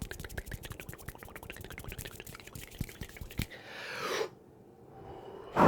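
Fast run of soft clicks right at the microphone, about ten a second, from an ASMR trigger, ending in a short swelling rush and then a pause.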